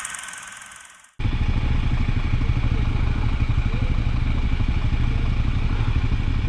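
Honda CT125 Hunter Cub's single-cylinder engine running steadily while the bike is ridden. It cuts in suddenly about a second in, after a hissy sound fades out.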